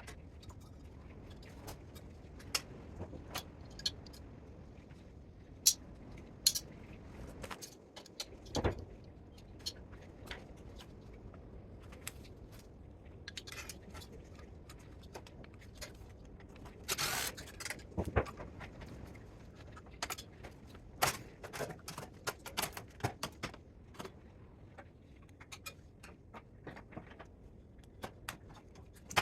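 Irregular metallic clicks and clinks of hand tools and parts being handled while a spot welder is dismantled for scrap, with a short scrape a little past halfway.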